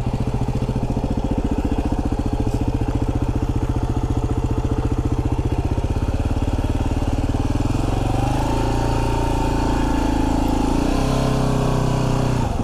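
Yamaha WR250R's single-cylinder four-stroke engine running steadily at low speed with a fast, even pulsing exhaust note, the pitch rising a little about eight seconds in and dipping briefly near the end.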